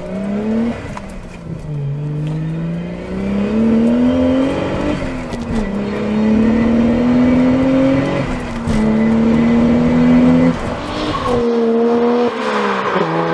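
Toyota 1JZ-GTE twin-turbo inline-six in a Lexus SC300 accelerating hard, heard inside the cabin. Its pitch climbs and falls back with three upshifts. Near the end the sound switches to the car heard from outside as it pulls away.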